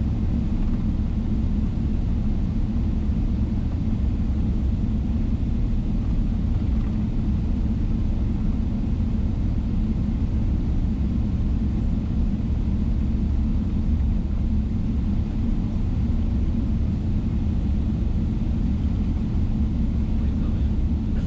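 Steady low rumble of cabin noise inside a Boeing 777-300ER on the ground, its engines running, without any change in pitch or level.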